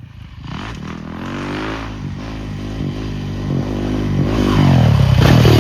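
Honda CRF450RWE single-cylinder four-stroke motocross bike engine being ridden hard, its pitch rising and falling several times with the throttle and getting louder toward the end.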